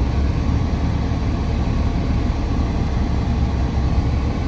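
Semi truck's diesel engine running at low speed as the truck creeps forward, heard from inside the cab: a steady low rumble.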